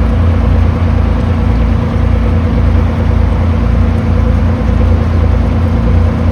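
Boat engine running steadily: a loud, constant low drone with a steady hum above it.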